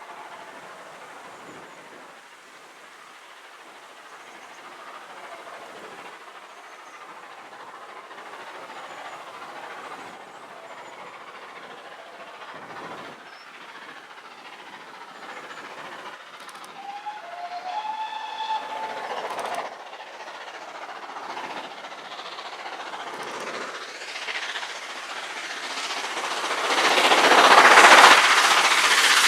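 A train approaching and growing steadily louder, with a locomotive whistle sounding for about two seconds midway. Near the end the train comes past close by with wheel and rail noise, the loudest part.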